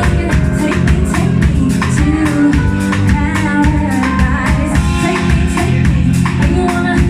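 Live band music with a steady beat, and a singer's voice over it.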